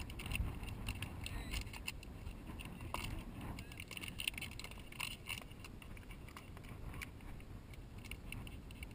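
Faint, irregular light clinks and rattles of small gear over a low, steady rumble.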